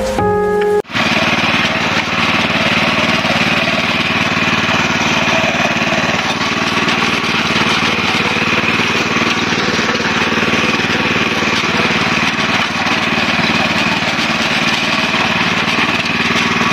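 Rotovator's small gasoline engine running steadily at a constant speed, cutting in sharply about a second in.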